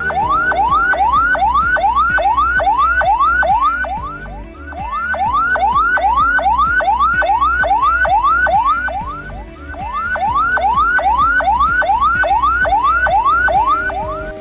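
Ambulance siren in its fast yelp mode: rapid rising wails, about four a second, in three runs with short dips between them. It is presented as the siren pattern an ambulance uses while carrying a patient.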